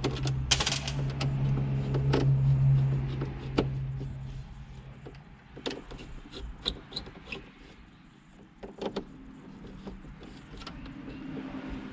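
Plastic dash trim and a metal radio bracket being handled, giving scattered clicks and knocks, over a steady low hum that stops about four seconds in.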